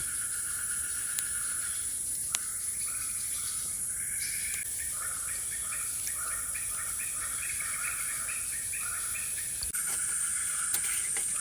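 Tropical forest dusk ambience: a steady high-pitched insect drone, joined about two seconds in by a long run of short, repeated animal calls, two or three a second.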